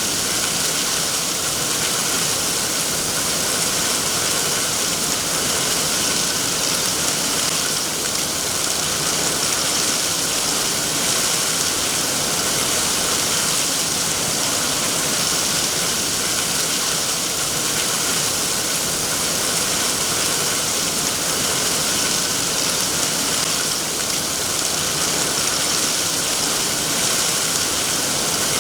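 Steady rain falling, an even hiss with no breaks or changes in level.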